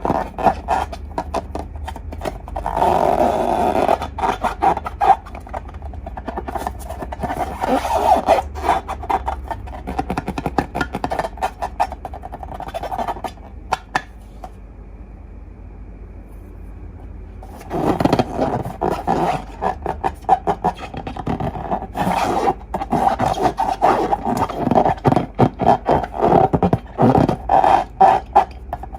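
Slime being squeezed and worked by hand: irregular wet clicking and crackling squelches that come in runs. They ease off about halfway through and pick up again densely a few seconds later.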